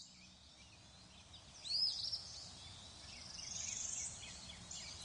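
Songbirds singing: short, high, arching chirps, with a fast high trill about three seconds in.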